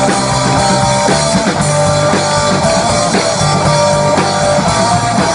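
Live rock band playing an instrumental vamp: drum kit, bass and electric guitar with held guitar notes.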